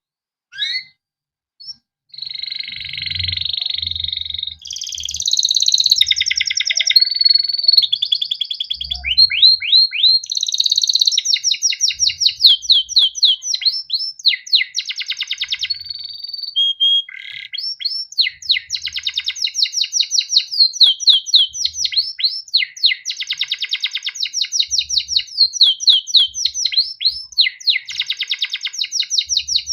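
Domestic canary singing a long unbroken song: a few short chirps at first, then from about two seconds in, fast trills and rolls of quick downward-sweeping notes repeated many times a second.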